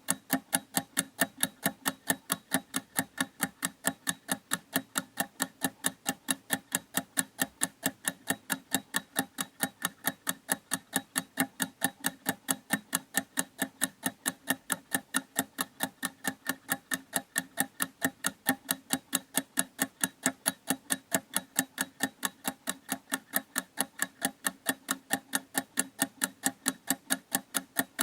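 Clock ticking steadily, with quick, even ticks several times a second.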